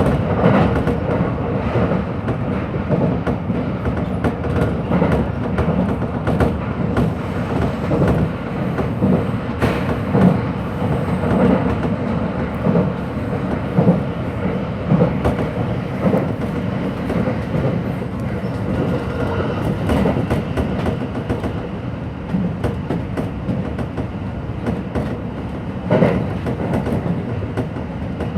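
Hanshin Electric Railway commuter train running between stations, heard from inside the car: a steady rumble of wheels on rail, a faint steady hum and irregular clicks and knocks over rail joints.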